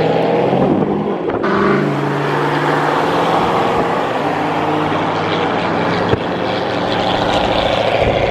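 Car engine running, its pitch shifting for the first couple of seconds and then holding steady, with a sharp click about six seconds in.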